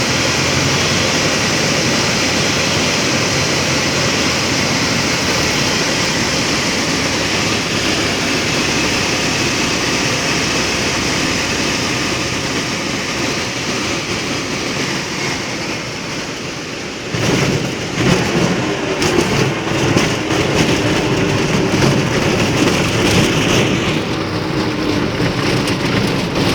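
Light aircraft landing: steady engine and airflow noise on the approach, then, about two-thirds of the way through, an abrupt change to a rough, rattling rumble as the wheels touch down and roll along the runway.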